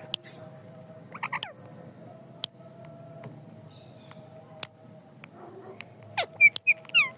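Green ringneck parakeet calling: a quick cluster of short calls about a second in, then a string of short calls falling in pitch near the end, with a few sharp clicks in between over a faint steady hum.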